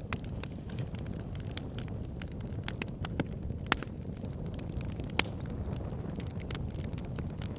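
Wood fire burning in a fireplace: irregular sharp crackles and pops from the burning logs over a steady low rumble of the flames, with a couple of louder pops in the middle.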